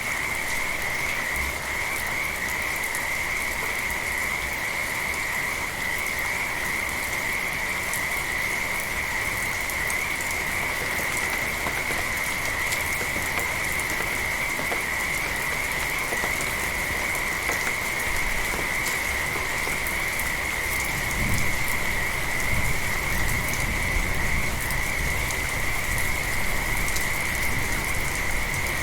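Frogs calling in a continuous chorus, heard as one unbroken high trill, over steady light rain. About two-thirds of the way through, a low rumble comes in underneath and the whole sound grows a little louder.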